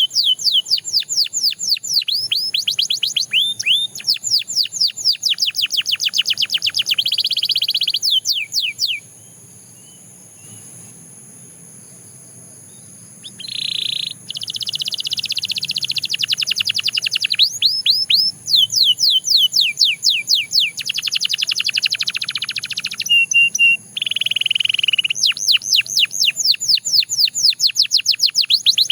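Canary singing: fast trills of rapidly repeated down-slurred notes alternating with buzzy rolls. The song breaks off for about four seconds a third of the way through, then resumes.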